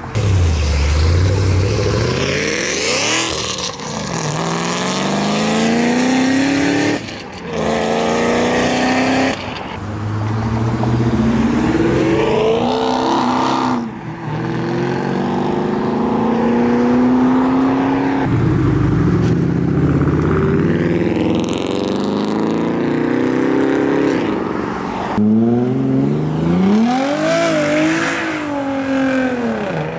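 Modified performance cars pulling away hard one after another: several separate full-throttle runs, each engine's pitch climbing and then dropping at a gear change.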